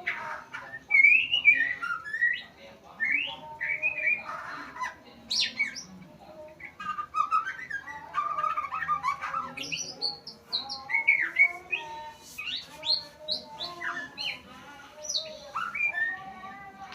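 Murai (a shama-type songbird) singing a long varied song of short whistles, chirps and quick rising and falling notes, with barely a pause.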